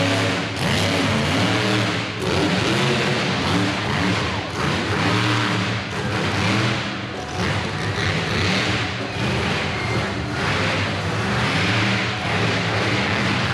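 Monster truck engine revving, its pitch rising and falling again and again over a dense, loud wash of noise.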